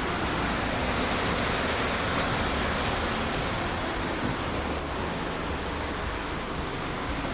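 Steady, even rushing noise with a low rumble inside a running Ford Focus.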